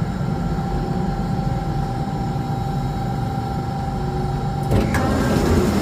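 Alstom Metropolis C830 metro train running, heard from inside the car: a steady low rumble with a constant whine. Near the end the whine stops and there is a brief clatter.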